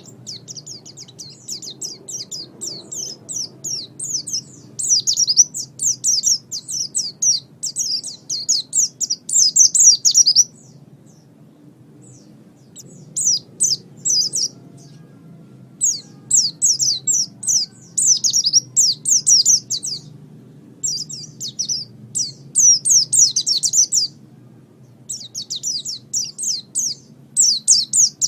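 Pleci (white-eye) singing: fast twittering phrases of rapid high notes, each lasting a few seconds, with short pauses between them.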